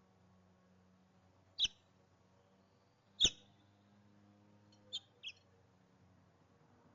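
Small songbird chirping: two loud, sharp single chirps about a second and a half apart, then two fainter quick chirps close together.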